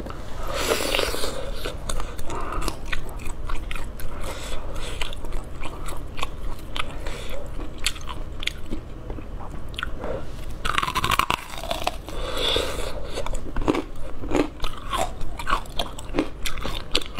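A person chewing and biting roasted pork with crisp skin: a run of wet mouth clicks and crunches, with a few longer, louder spells of chewing about a second in and again near the middle.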